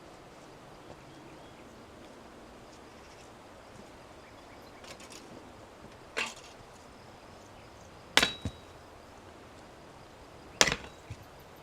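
Three sharp knocks about two seconds apart, the last two each followed by a lighter second knock.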